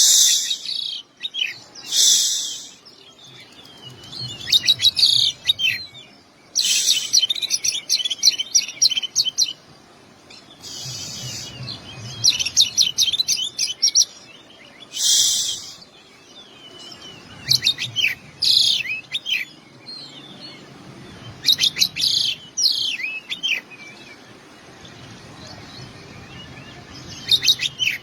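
Oriental magpie-robin (kacer) singing its 'isian', learned fill phrases. The phrases are rapid twittering trills broken by a few harsh rasping notes, repeated every second or two with short pauses between them.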